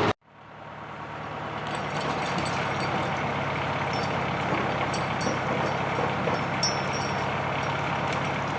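John Deere 2750 farm tractor's diesel engine running steadily. It cuts out briefly at the start, then fades back in over about two seconds.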